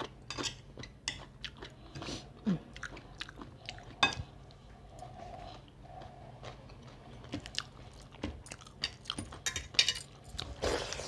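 Close-miked chewing and lip-smacking of a person eating rice and fish curry by hand, with many irregular wet clicks and smacks.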